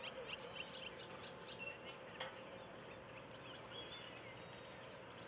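Birds chirping faintly in short calls and quick sweeps, over a steady background hum.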